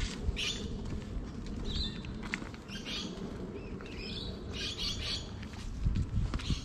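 Birds chirping in short repeated bursts over a steady low rumble, with a few low thumps near the end.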